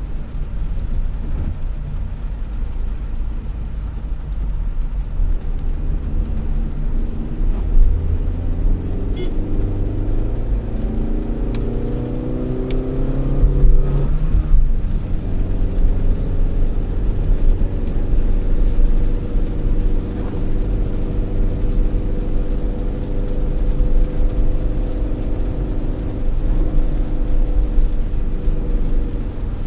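Honda Elevate's four-cylinder petrol engine and road rumble in a moving car. The engine note climbs steadily as the car accelerates in gear, drops sharply about halfway through at a gear change, then holds steady while cruising.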